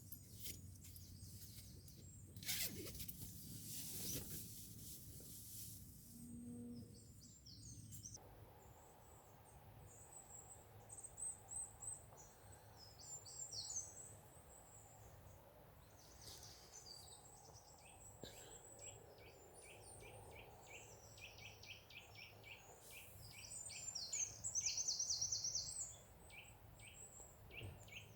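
Small birds chirping and calling, faint, with a fast run of repeated notes near the end. Before the birdsong comes in, a few seconds of rustling noise.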